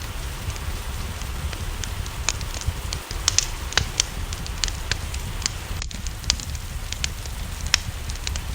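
Wood fire crackling, with sharp pops at irregular moments, over steady rain and a low rumble.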